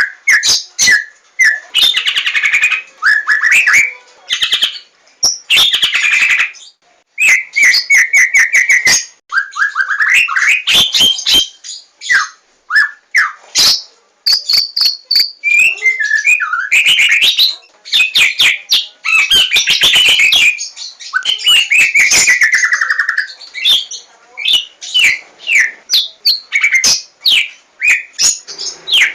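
White-rumped shama of the Javanese 'Larwo' type singing a loud, varied song: whistled phrases and quick trills mixed with sharp clicking notes, in bursts with short pauses between them.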